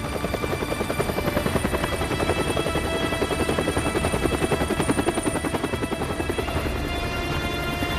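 Helicopter rotor blades beating in a fast, even chop, about five or six beats a second, swelling louder toward the middle.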